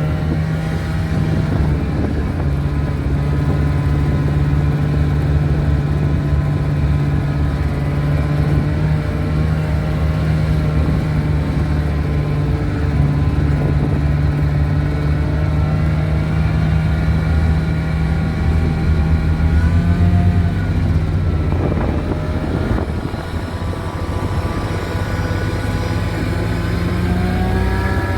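Small engine of a 1970 Cony kei truck running under way, holding a steady pitch. It eases off about twenty seconds in, then revs up again near the end.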